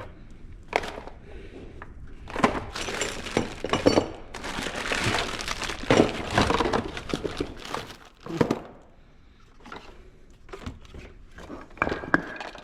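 Rummaging through tools and parts: irregular clattering, knocks and rustling, busiest for several seconds in the middle, with a few sharper knocks near the end.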